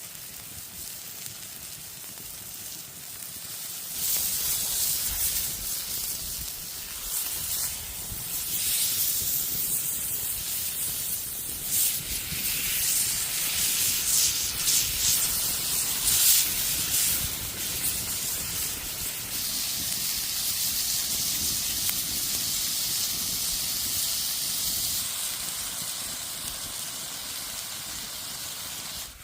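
Hot oil sizzling as food fries, with scattered crackles. The sizzle jumps up suddenly about four seconds in and eases a little near the end.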